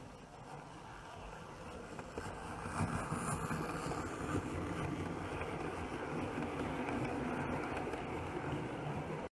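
00 gauge model train running on track: a white-metal D1 4-4-0 locomotive with a K's motor, hauling coaches, making a steady rumble and motor hum. It grows louder over the first few seconds as it approaches, then cuts off suddenly near the end.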